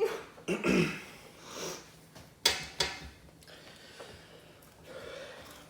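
Sharp sniffs and heavy breathing, with a couple of short voiced groans, from a person in the burning pain of an extremely hot chili chip and tearing up.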